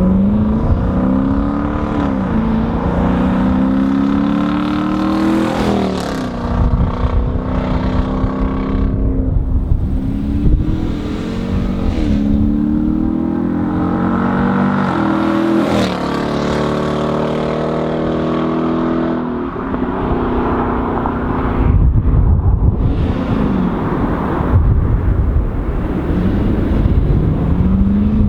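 Dodge Charger R/T 5.7 Hemi V8 running through a Solo Performance MR212-HJ stainless converter-back exhaust with J-pipes, accelerating. The pitch rises and drops back several times, as at gear changes, with steadier cruising stretches between.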